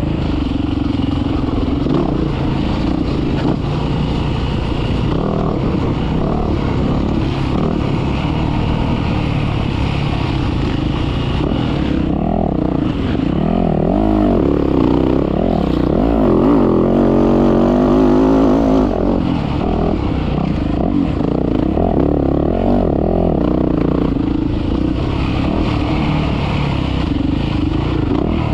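Motocross dirt bike engine running hard, its revs rising and falling continuously as it is ridden.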